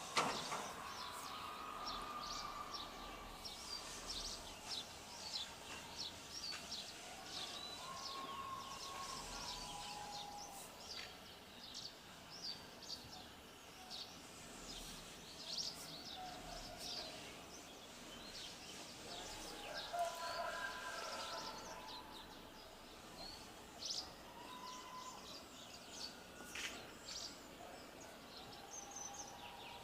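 Many birds chirping in short, quick calls over steady outdoor background noise, with a sharp click right at the start.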